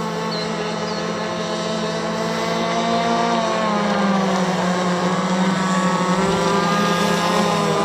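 Gas-powered RC catamaran speedboat's two-stroke engine running on the water, its pitch dipping and rising with the throttle about halfway through, then holding steady.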